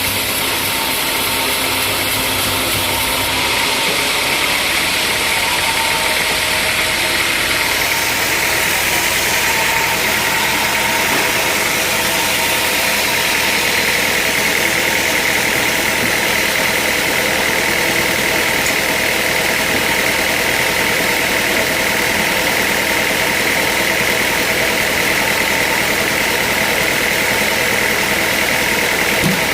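Sawmill machinery running steadily: a continuous loud mechanical noise with a high whine that grows stronger after about ten seconds.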